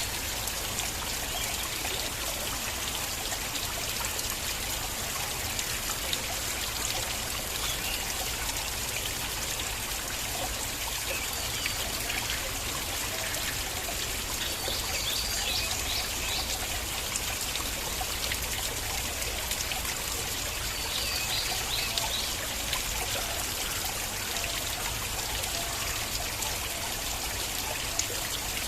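Flowing stream water running over stones, a steady trickling and splashing.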